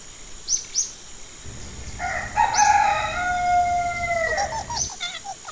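A rooster crowing once: one long call starting about two seconds in and held for about two seconds before dropping off. A few short high chirps come before and after it.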